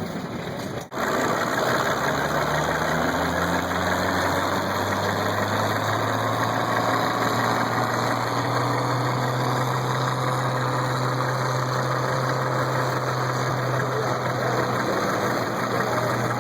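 Antique farm tractor engine running steadily at low speed. Its pitch rises a little a few seconds in, then holds.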